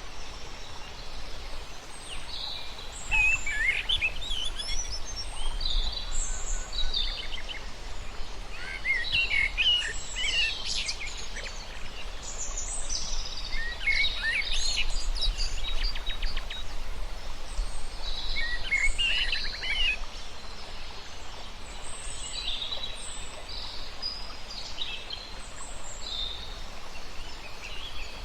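Several birds chirping and singing at once in repeated bursts of high twittering calls, with a fast trill about halfway through, over a steady low rumble.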